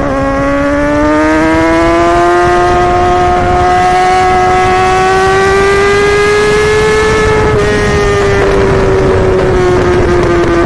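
Yamaha R6 sport bike's inline-four engine running at high revs. Its high-pitched wail climbs slowly for about seven seconds, then eases down. It runs on a stock, unremapped tune with no exhaust pops.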